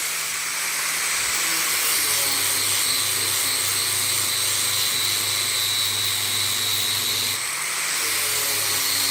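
A power tool running steadily, with a high whine over a low hum; its sound changes briefly about seven seconds in.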